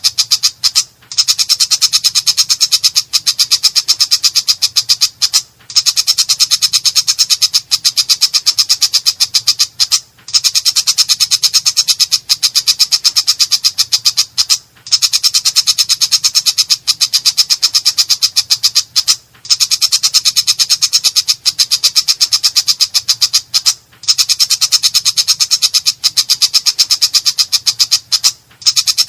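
Cendet (long-tailed shrike) singing in full voice: a harsh, rapid chatter of many strokes a second. It comes in runs of about four and a half seconds with brief breaks between them.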